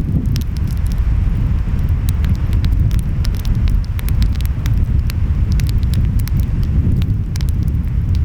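Wood fire crackling, with many short sharp pops, over a steady low rumble of surf and wind.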